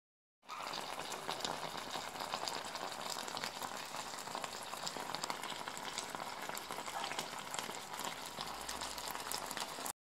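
Chicken livers with onions, olives and preserved lemon sizzling and bubbling in oil in a pan: a steady crackle that starts about half a second in and cuts off just before the end.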